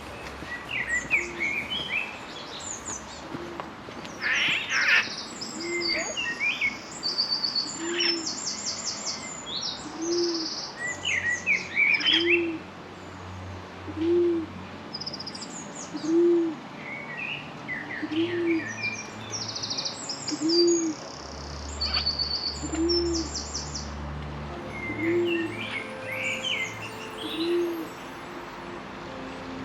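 Several birds calling, with short chirps, trills and whistles over a low, soft one-note call repeated about every two seconds.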